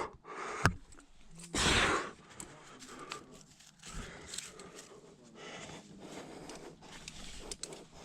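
A climber's heavy breathing, with one loud, forceful exhale about a second and a half in, amid small scrapes and clicks of movement on the rock.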